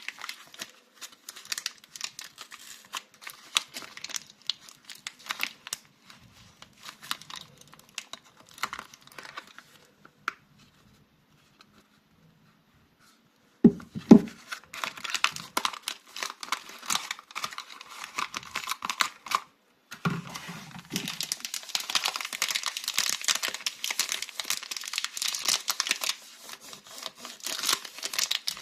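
Soap wrappers crinkling and tearing as soap bars are unwrapped by hand, with a short pause in the middle followed by a loud thump, then denser crinkling.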